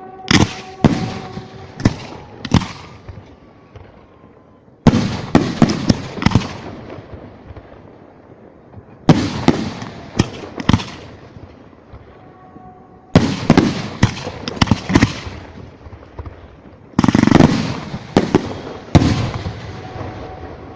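Fireworks bursting overhead: a loud bang about every four seconds, each followed by a quick string of smaller cracks and a fading, echoing tail, five volleys in all.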